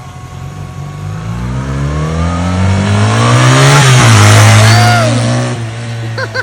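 A motor vehicle engine revving up, its pitch climbing steadily and loudest about four seconds in, then dropping and fading away near the end.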